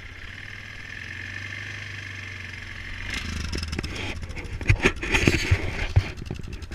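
2004 Yamaha Kodiak 450 ATV's single-cylinder four-stroke engine idling steadily just after a cold start without choke. From about three seconds in, louder rustling and several sharp thumps come over the idle.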